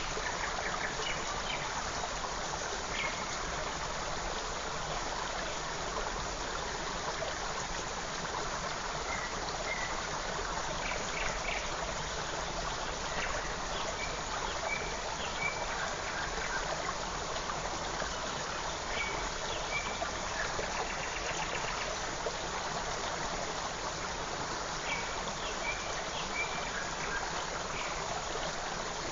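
Small forest creek flowing and trickling steadily, with scattered short high bird chirps over the water.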